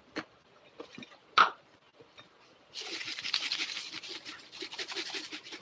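Chicken intestines frying in a hot pan: a sudden sizzle full of fine crackles starts about three seconds in and keeps going. Before it comes a single sharp knock, the loudest sound, about a second and a half in.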